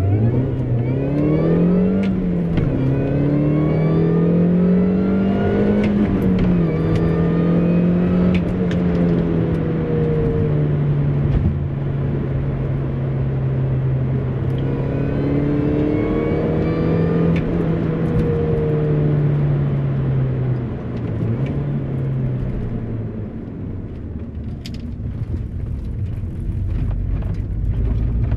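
MINI Cooper S (R53) supercharged 1.6-litre four-cylinder engine heard from inside the cabin while driving. The engine note climbs and drops sharply at a gear change about two seconds in and again about six seconds in, then holds a steady cruising pitch. It eases off and quietens in the last few seconds, over a steady low road rumble.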